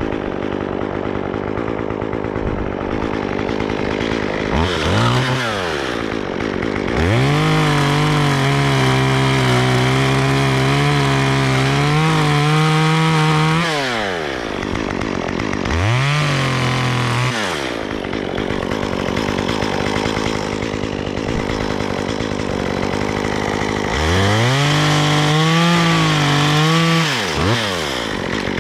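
Two-stroke chainsaw idling, opened up to full throttle four times. The longest burst holds high revs for about six seconds, and each time the engine drops back to idle.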